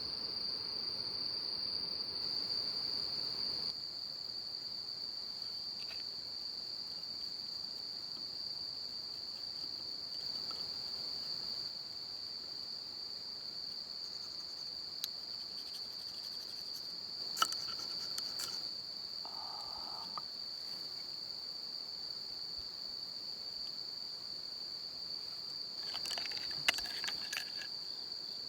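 Crickets chirring in one steady high-pitched tone throughout, with a few sharp clicks about halfway through and again near the end.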